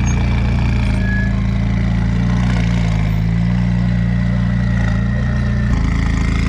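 Car engine running steadily with a low, even note; the note changes abruptly about five and a half seconds in.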